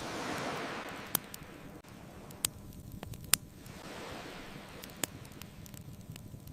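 Ocean waves washing in slow swells, with a wood fire crackling over them in a few sharp, loud pops.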